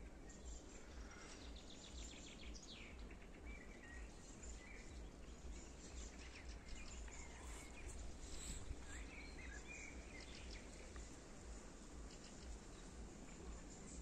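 Faint garden ambience: scattered short bird chirps and quick trills over a steady low rumble.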